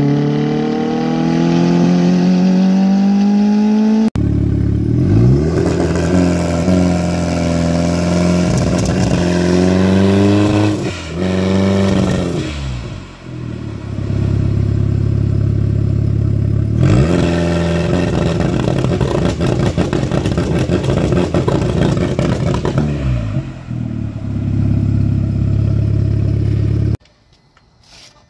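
Car engine accelerating, heard from inside the cabin with its pitch rising. About four seconds in it cuts to an engine revving up and down several times over a steady low drone. Near the end it falls away to a quiet gap.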